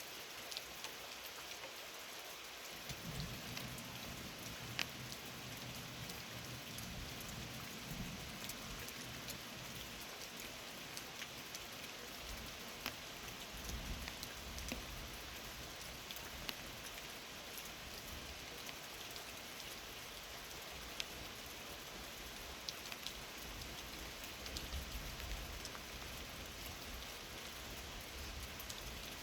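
Steady rain falling on surfaces, with scattered sharper drop impacts. A low rumble comes in underneath about three seconds in and carries on.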